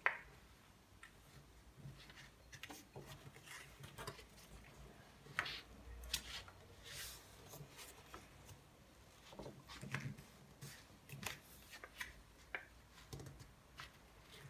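A sheet of paper being handled and folded: irregular short rustles, scrapes and crinkles as the creases are pressed flat.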